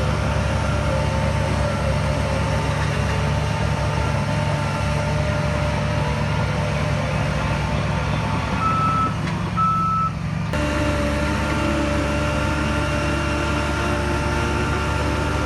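Heavy diesel earth-moving machinery running steadily, with two short high beeps of a reversing alarm just before the middle. The sound changes abruptly about ten seconds in.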